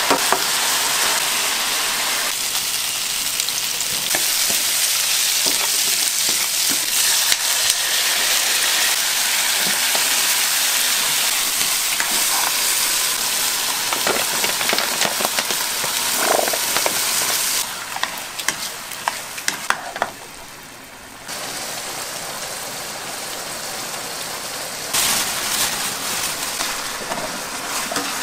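Food frying and sizzling in a pan, with stirring and scattered clicks of a utensil. The sizzle drops back about two-thirds of the way through, goes quiet for a moment, then comes back near the end.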